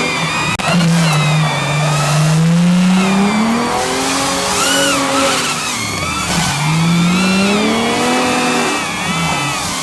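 Drift car engine revving, its pitch climbing and falling several times, with tyre squeal from the car sliding. There is a brief dropout about half a second in.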